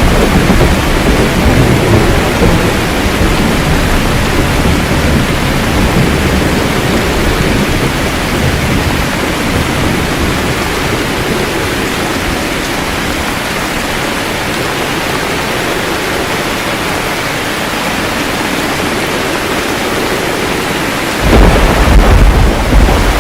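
Steady rain with thunder: a low rumble that dies away over the first several seconds, then a loud, sudden peal of thunder near the end.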